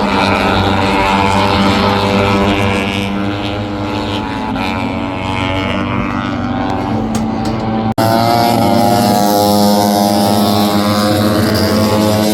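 MotoGP racing motorcycle engines running at high revs, their pitch drifting up and down with the throttle. The sound breaks off for an instant about eight seconds in and then carries on.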